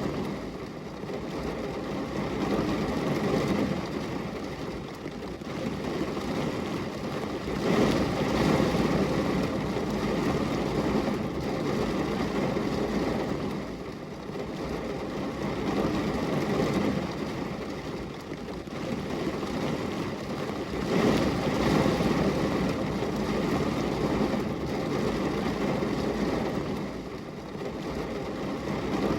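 Steady rain: a dense rushing noise with a low rumble that swells and eases every few seconds.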